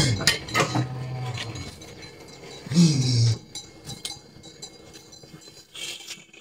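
Wordless vocal sounds: a held low hum for about a second and a half, then a short falling cry about three seconds in.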